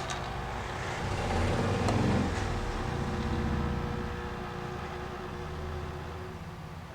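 Hot air rework station blowing on an iPhone motherboard: a steady rush of air with a low hum, louder from about one to three seconds in, then easing off. It is heating the board slowly to soften the solder where the board is lifting.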